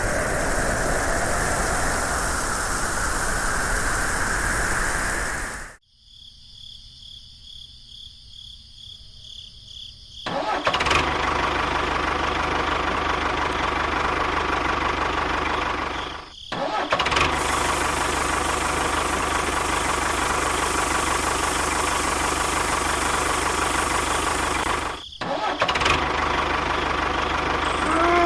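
Small motors of a miniature DIY tractor and bulldozer running with a steady whine that shifts in pitch. The sound cuts abruptly several times, and for about four seconds after the first cut only a faint high whine is left.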